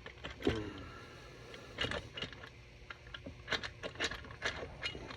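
Scattered light metallic clicks and taps from tools and engine parts as the crankcase half of a Triumph 675 Daytona three-cylinder engine is worked loose.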